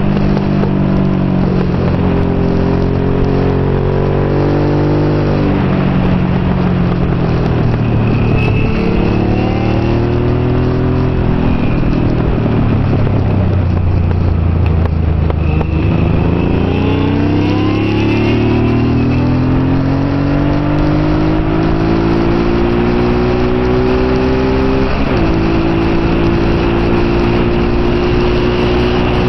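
Kawasaki NT650 Hawk GT's V-twin engine heard onboard at race pace. The engine note falls in steps as the bike brakes and downshifts into a corner, bottoms out around the middle, then rises steadily under hard acceleration. There is a sudden drop for an upshift near the end, after which it runs on at a steady pitch.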